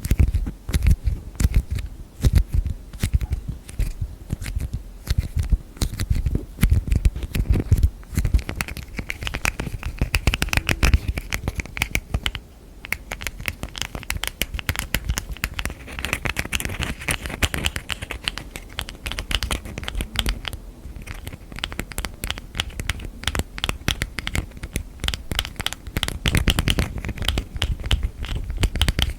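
Fast, continuous fingernail tapping and scratching on containers and their lids, with heavier knocking taps in the first several seconds and again near the end.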